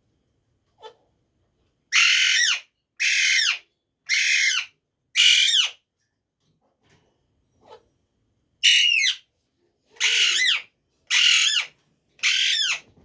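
A pet parrot squawking: two runs of four loud, harsh calls about a second apart, each call lasting about half a second and falling in pitch at its end.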